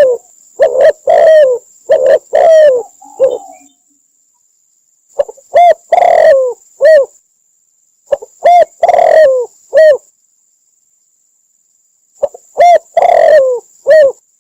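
Spotted dove cooing in short phrases of three or four low, falling coo notes, each phrase about two seconds long, with pauses of one to two seconds between them. It is a loud, close recording of the call played as a lure for trapping spotted doves.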